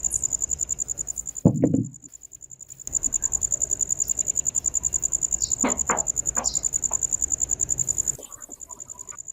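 Insect chirping in a fast, steady, high-pitched pulsed trill, about ten pulses a second. It breaks off briefly about two seconds in and is quieter near the end. A short loud knock comes about one and a half seconds in.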